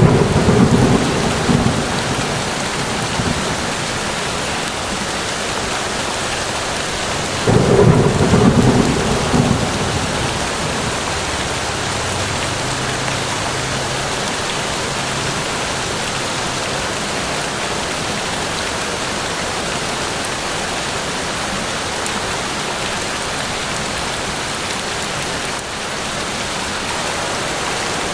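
Steady heavy rain falling, with a roll of thunder at the start and a second about eight seconds in.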